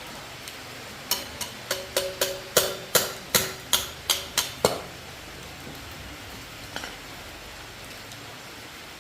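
A hammer striking metal about a dozen times in quick succession, roughly three blows a second, each with a short metallic ring, then a faint knock a couple of seconds later.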